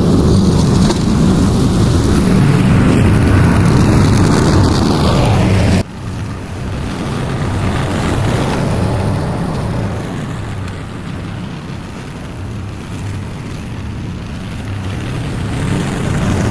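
Petrol lawn mower engine running steadily while cutting tall grass. It suddenly becomes quieter about six seconds in and keeps running.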